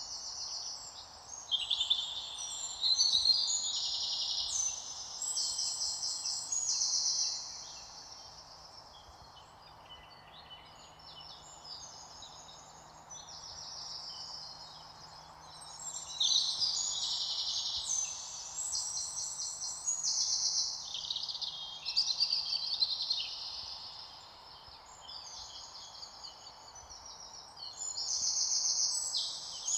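Several birds singing in overlapping high, rapid trilled phrases, louder in spells a couple of seconds in, in the middle, and near the end, over a faint steady background hiss.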